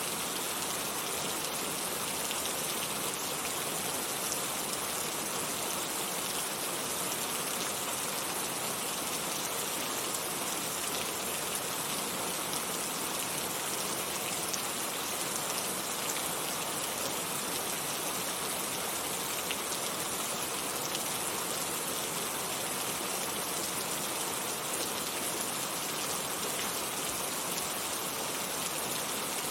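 Heavy rain falling steadily, an even dense hiss with fine scattered drop ticks and no change in intensity.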